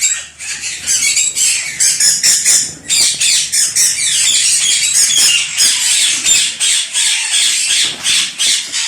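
A colony of Indian ringneck parakeets squawking and screeching all at once, a dense, unbroken din of short, shrill, overlapping calls.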